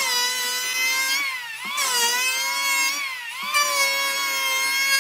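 Electric power tool motor whining at high speed. Its pitch sags and recovers a couple of times as it is loaded in the wood.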